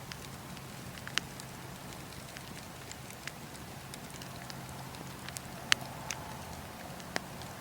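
Wood fire burning, with scattered sharp crackles and pops from the firewood; the loudest pop comes about three-quarters of the way through.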